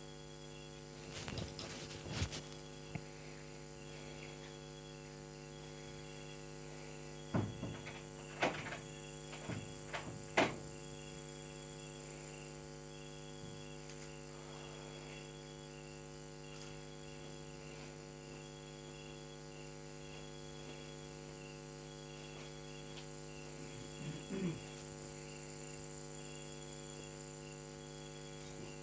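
Steady electrical hum with a faint high chirp repeating at an even pace, and a few scattered soft knocks.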